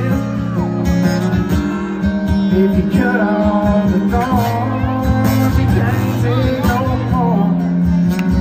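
Acoustic guitar strumming chords, with a steady run of strummed strokes.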